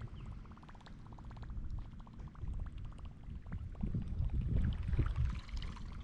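Water sloshing and lapping against a kayak hull in choppy, wind-driven water, with uneven low rumbling gusts, strongest from about four seconds in. A fast run of light ticks sounds over the first half.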